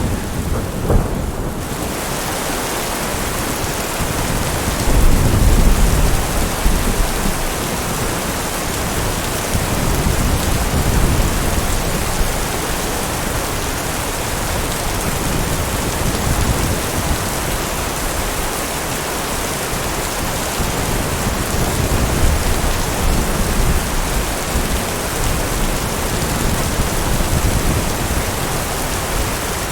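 Steady heavy rain with low rumbles of thunder rolling through, the loudest rumble about five seconds in.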